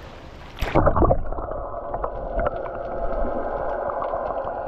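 Boat engine running steadily, coming in suddenly with a loud burst less than a second in, after a faint hiss.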